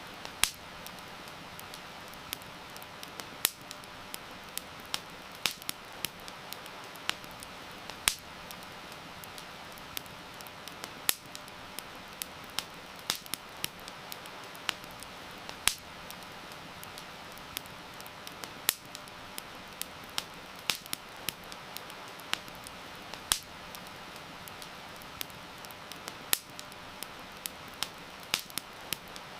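Wood campfire crackling, with irregular sharp pops about once or twice a second over a steady hiss of rain.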